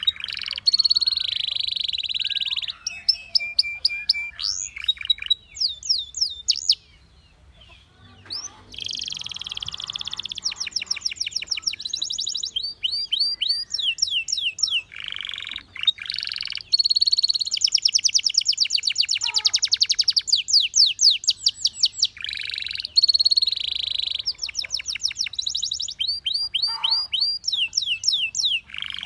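Canary singing: long phrases of fast repeated trill notes, each phrase a run of quick identical syllables, with a brief pause about a quarter of the way through.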